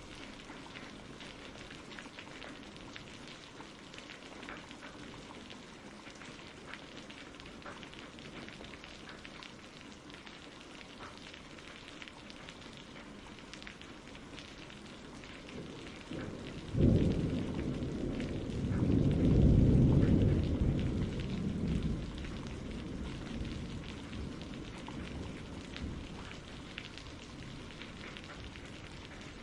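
Steady rain with scattered drops, and a roll of thunder that breaks in sharply a little over halfway through, swells for a few seconds and rumbles away.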